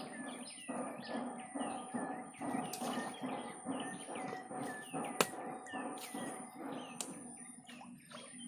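Birds chirping: a dense run of short, falling chirps, several a second, over a steady high-pitched tone and a lower pulsing sound that fades near the end. A single sharp click about five seconds in.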